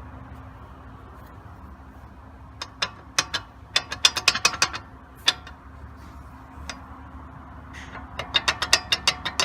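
Sharp metallic clicks in quick bursts at the GMC Envoy's sway bar link pins, which were left loose and never tightened. The clicks begin a few seconds in, come singly in the middle, and turn into a fast run near the end, over a steady low hum.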